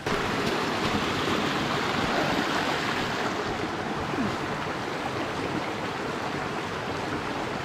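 Steady rushing of a rocky Ozark creek flowing over stones, an even wash of water noise without breaks.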